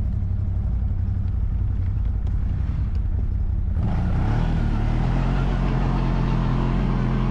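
CFMoto CForce 1000 ATV's V-twin engine running steadily at low revs. About four seconds in, it picks up to a slightly higher steady pitch and runs harder, with a louder rushing noise over it.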